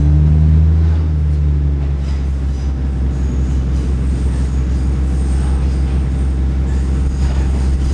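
Diesel railcar running, heard from inside the passenger car: a steady low engine drone with the rumble of the wheels on the rails, a little louder in the first second.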